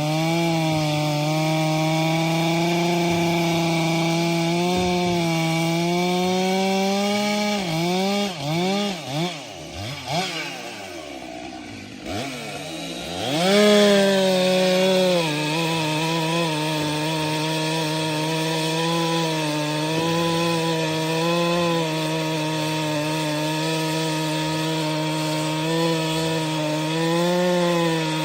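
STIHL MS 462 C-M two-stroke chainsaw running at high revs under load, cutting firewood with a steady high pitch. About a third of the way in, the throttle is let off and blipped a few times, the pitch swinging down and up and the level dropping, before it revs up loud and settles back into a steady cut.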